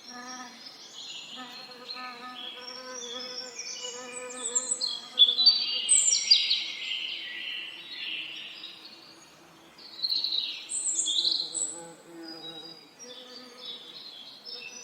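Several songbirds singing and trilling in overlapping phrases, loudest in the middle and again about two-thirds through, over the low, steady buzz of bees that fades in and out.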